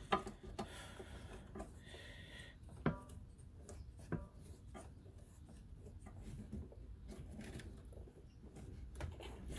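Scattered small clicks, knocks and rubbing of rubber hoses and fittings being worked onto a fuel filler neck, with two louder knocks about three and four seconds in.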